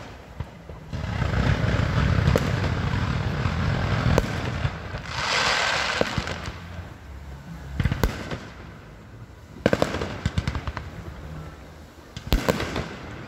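Fireworks bursting: a run of dense low booms in the first few seconds, a hissing stretch about five seconds in, then separate sharp bangs about eight, ten and twelve seconds in.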